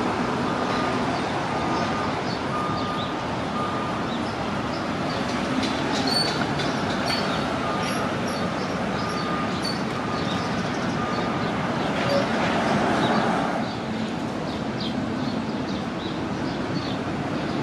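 Heavy vehicles running with a steady rumble, while a high electronic beep repeats about once or twice a second in two runs, the first at the start and the second about 8 seconds in.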